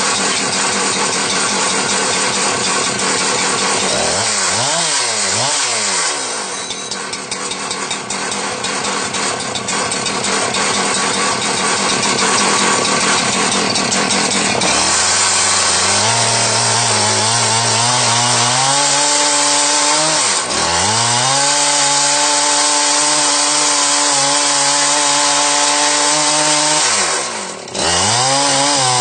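Chainsaw in a chainsaw mill with a 36-inch bar, revved up and down, then held at a steady high pitch while cutting along a cherry log. Its pitch dips briefly and recovers twice in the second half.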